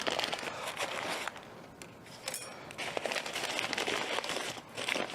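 Crinkling and rustling of plastic parts packaging, with small clicks, as the new differential clutch pack parts are handled.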